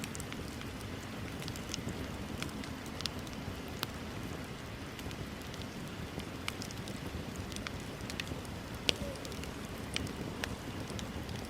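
Wood bonfire burning, with a steady low rush and scattered sharp crackles and pops, the loudest pop about nine seconds in.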